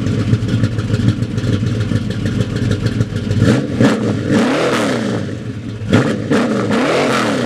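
1970 Pontiac Firebird's 455 V8, bored .060 over with a racing cam, running through a custom exhaust just after starting. It is revved twice, about three and a half seconds in and again about six seconds in, settling back to idle between.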